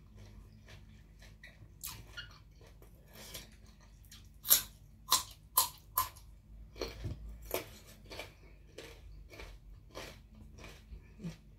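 Close-up chewing with small wet mouth clicks, then a run of loud, crisp crunches from about four and a half seconds in as a raw carrot stick is bitten and chewed.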